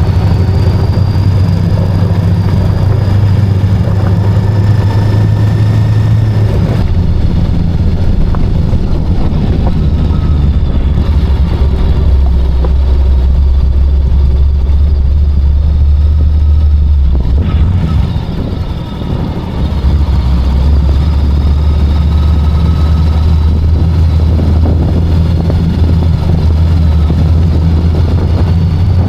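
VOGE 525DSX motorcycle's parallel-twin engine running steadily under way. The engine note steps down in pitch about seven seconds in, and the sound briefly drops off about two-thirds of the way through before picking up again.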